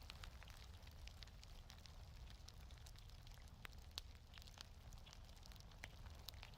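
Faint wood fire crackling in a fireplace: scattered small pops and snaps over a low steady rumble, with a sharper pop about four seconds in.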